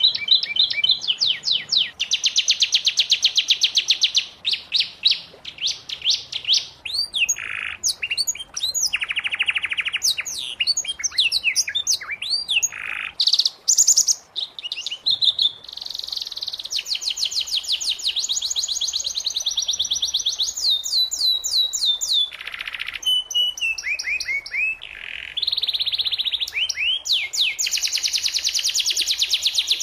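Domestic canary singing: long, fast trills of rapidly repeated high notes, broken by short chirps and a few brief lower buzzy rattles.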